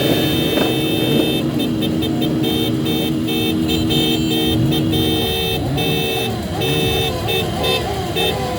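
Several vehicle horns honking over traffic noise: one horn held steadily until about five seconds in, while others sound in short repeated blasts.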